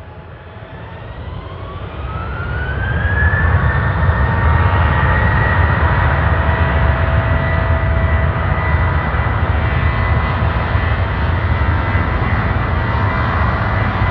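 Boeing 737-800's CFM56-7B jet engines spooling up: a whine rises in pitch over the first three seconds or so as the sound grows louder, then holds steady at a high level with a deep rumble underneath, as at takeoff thrust.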